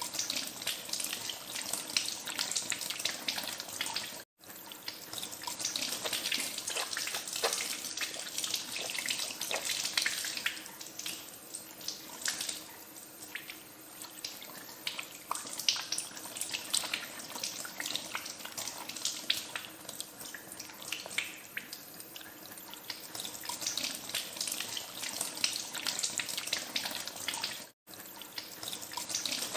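Tap water running into a sink while hands are washed under it, with irregular small splashes. The sound drops out for a split second twice, about four seconds in and near the end.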